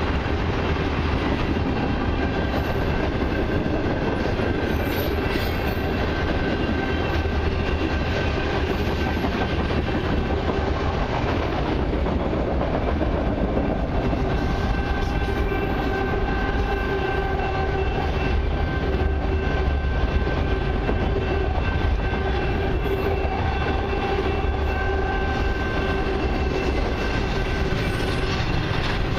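Freight cars of a long train rolling past close by (tank cars, then autoracks, then double-stack container cars): a steady rumble of steel wheels on the rails with a constant whine over it, the whine growing stronger about halfway through.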